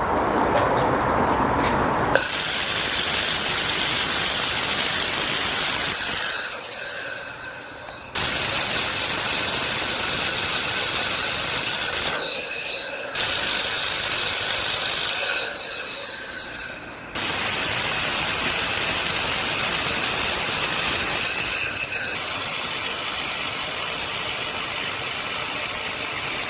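Handheld laser welder welding in four long runs. Each run starts suddenly with a steady, loud hiss and dies away when it stops.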